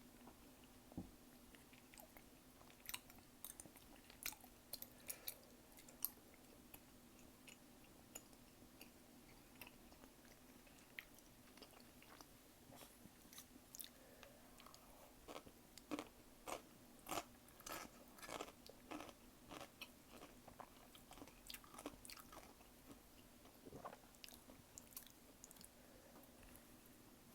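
Close-miked chewing and biting of food: scattered moist clicks and crunches, coming in clusters and busiest in the second half, over a faint steady hum.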